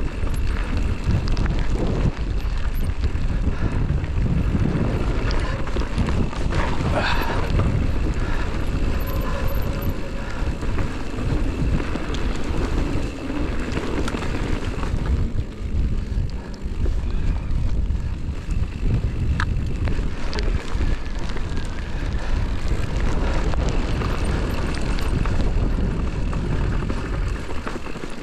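Heavy wind buffeting a GoPro's microphone as a mountain bike rides downhill, a steady low rumble with a few sharp knocks and rattles from the bike.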